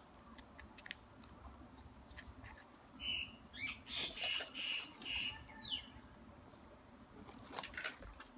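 A bird chirping for a few seconds in the middle, a run of high notes with a couple of short falling calls. Faint clicks come from ribbon and small scissors being handled.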